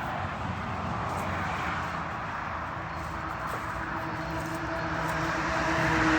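Big-block V8 engine of a Fox-body Ford Mustang running, its steady note growing louder toward the end.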